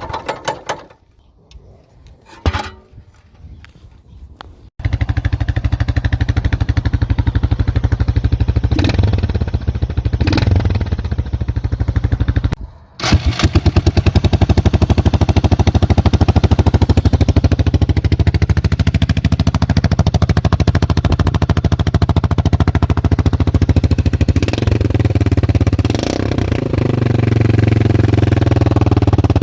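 Off-road vehicle engine running with its muffler removed: after a few light clicks it comes on abruptly about five seconds in, loud and rapidly pulsing. It cuts out briefly past the middle, comes back, and changes pitch near the end.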